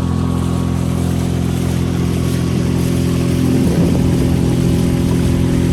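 Small outboard motor running steadily under way, pushing a loaded inflatable boat, its engine note holding an even pitch.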